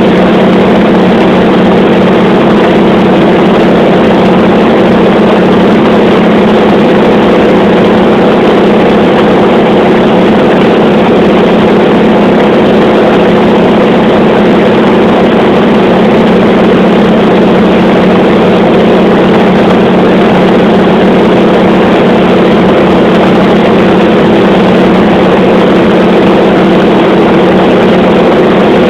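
Radial piston aircraft engine droning steadily at cruise power, loud and unchanging throughout.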